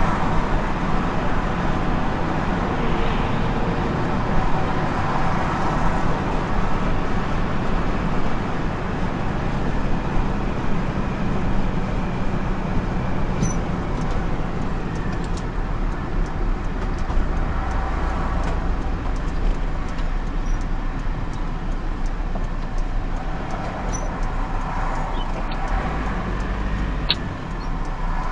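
A car driving in traffic: steady engine and road noise with a low hum throughout, and a few faint clicks.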